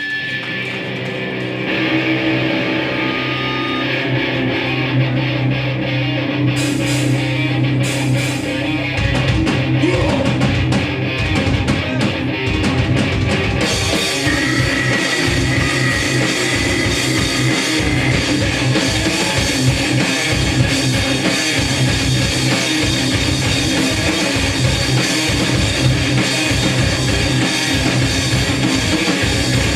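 Hardcore punk band playing live: a guitar chord rings out, drums come in about nine seconds in, and the full band is playing together by about fourteen seconds.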